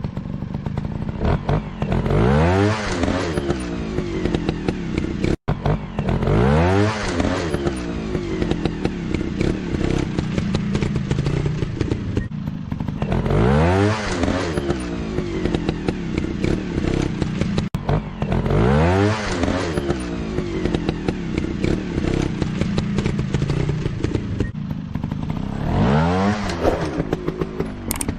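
Off-road trail motorcycle engines revving hard again and again, the pitch climbing sharply every five or six seconds over a steady running note, with clattering and scraping in between.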